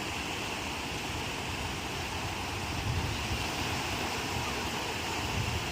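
Ocean surf: waves breaking and washing on the shore in a steady rush of noise, with a low rumble that swells slightly about halfway through and again near the end.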